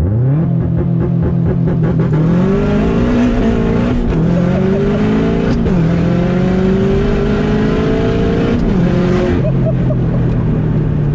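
Tuned Subaru WRX's turbocharged EJ25 flat-four under hard acceleration, heard from inside the cabin. It revs up sharply at the start, then climbs in pitch in pulls that drop back at gear changes about four and five and a half seconds in. Near the end it eases off into a steady lower drone.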